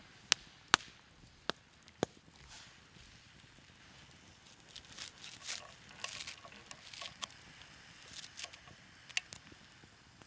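Four sharp knocks or clicks in the first two seconds, then softer irregular crackling and rustling from about halfway through.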